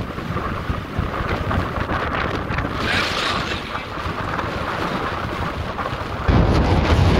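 Wind buffeting the microphone over the low rumble of an off-road SUV driving through the desert. The noise gets abruptly louder about six seconds in.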